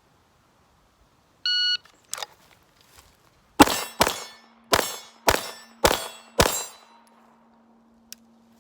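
A shot timer beeps once. About half a second later comes a quick string of about seven pistol shots from a compensated STI DVC Omni, spread over some four and a half seconds, with AR500 steel targets clanging and ringing on after the hits.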